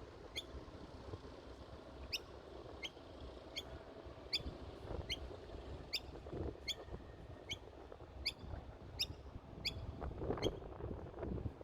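A bird calling over and over with short, sharp, high chirps, evenly spaced at about one every three-quarters of a second.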